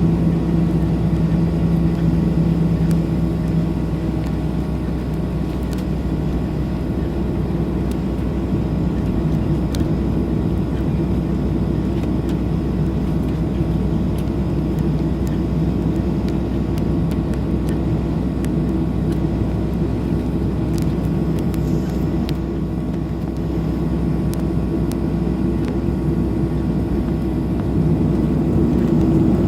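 Boeing 737-800's CFM56-7B jet engines running, heard from inside the passenger cabin as a steady hum with a couple of held low tones. It grows a little louder near the end.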